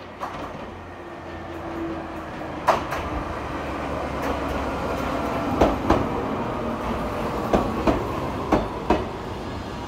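Ex-Tokyu stainless-steel electric train pulling into a station platform, its running noise growing louder as it nears, with sharp wheel clacks mostly in pairs as the bogies cross rail joints. Under them is a faint whine that falls slowly in pitch as the train slows.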